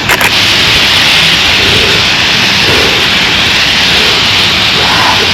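Thousands of purple martins calling at once, a loud, steady chorus that blends into a dense hiss. A brief click sounds right at the start.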